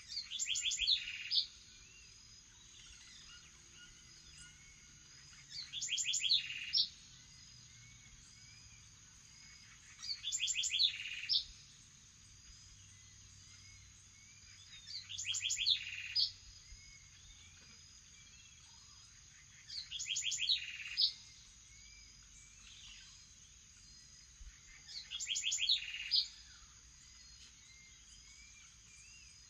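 A songbird repeating the same short, quick song of rising and falling whistled notes, about once every five seconds, six times in all. Behind it a steady high-pitched tone and faint calls of other birds.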